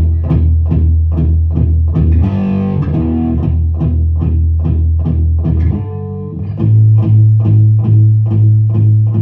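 Background music of a guitar being played: a rhythmic picked pattern of about three strokes a second over a low held bass note, which moves up to a higher note about two-thirds of the way through.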